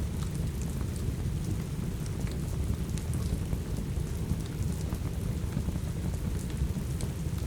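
Steady rain with a deep, continuous low rumble, scattered with small sharp crackles from a wood fire.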